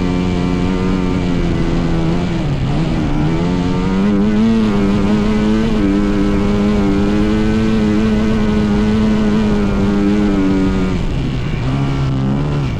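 Dirt bike engine running at high, steady revs. It eases off briefly about two seconds in and climbs back up, holds, then drops in pitch near the end.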